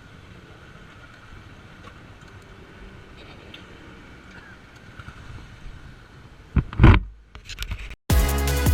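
Quiet, steady road traffic noise, with a short loud rushing burst about six and a half seconds in. Just before the end it cuts out and loud electronic music with drums starts abruptly.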